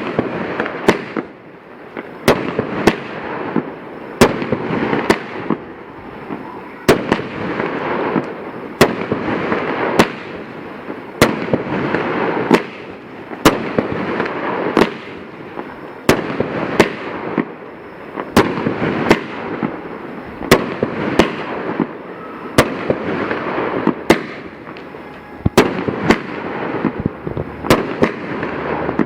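Fireworks going off in a steady, even series of sharp shots, about three every two seconds, with a continuous dense crackle filling the gaps between them.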